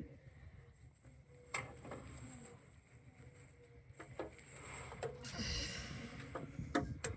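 Faint, scattered clicks and knocks, a few sharp taps about one and a half, four and five seconds in and twice near the end, over a low steady rumble.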